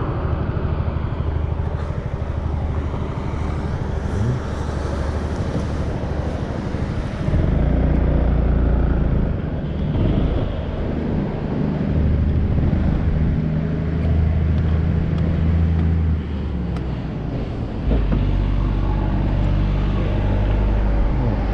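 Honda Forza 350 scooter engine running under way, with wind and road noise. The engine gets louder about seven seconds in and again near eighteen seconds.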